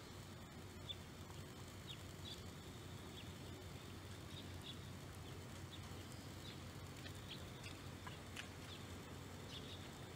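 Faint outdoor ambience: a steady low rumble with scattered short, high chirps of small birds.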